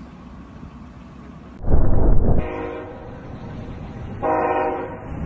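Low steady road rumble. After a cut comes a loud low rumble, then two blasts of a deep multi-tone horn, the second about two seconds after the first.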